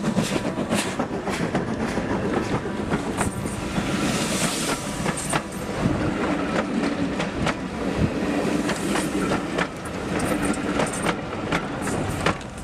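A steam-hauled passenger train passes close by: first the locomotive, then the coaches, their wheels clicking over the rail joints in a repeated clickety-clack.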